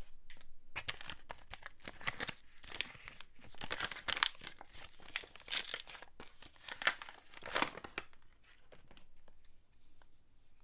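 Soap packaging crinkling and tearing as a bar of soap is unwrapped by hand, in irregular rustling strokes that die down after about eight seconds.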